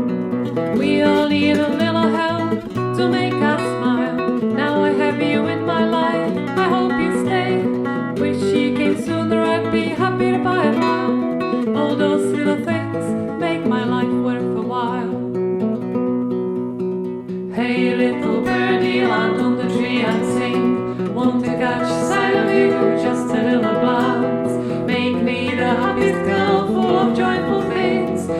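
Upbeat folk song played on acoustic guitar, strummed and plucked in a steady rhythm. Just past the middle the strumming eases off for a couple of seconds, then comes back in full.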